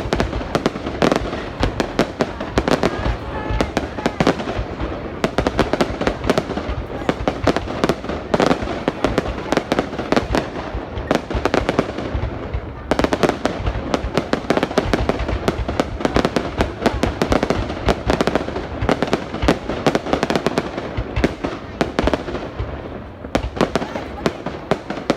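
A dense barrage of fireworks: many overlapping bangs and crackles, going on without a break.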